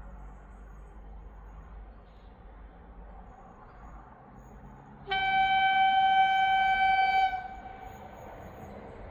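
Train horn sounding one steady note for about two seconds, a little past halfway, over the low rumble of a train.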